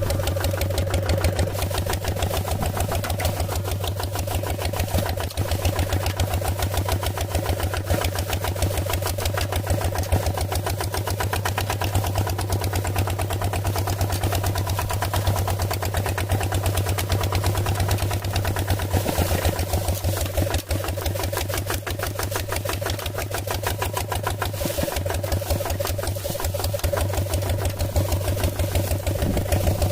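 Small engine of a homemade mini tractor running steadily, with a rapid, even pulsing beat.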